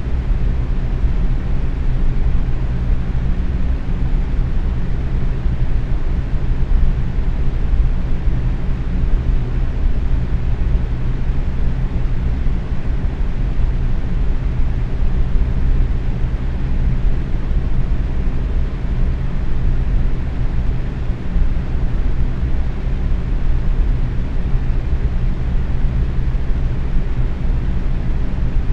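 Box fan running on medium speed: a steady rush of air with a low hum, with no change throughout.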